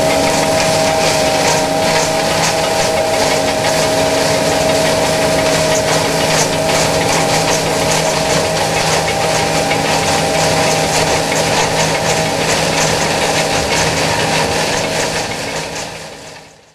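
John Deere S660i combine harvester running steadily, a constant engine and machinery hum with several steady tones in it; it fades out near the end.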